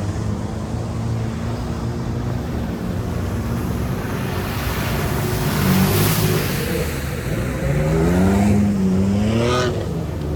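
Off-road vehicle's engine running under load, then revving with its pitch rising and falling several times near the end.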